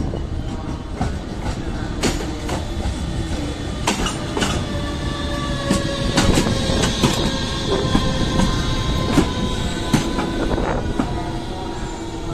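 Train rolling slowly through station trackwork, its wheels squealing in several long steady tones, with irregular clacks as they cross rail joints and switches.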